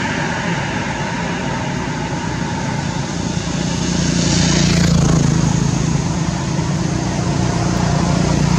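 A motor vehicle's engine running steadily, its hum growing louder about halfway through.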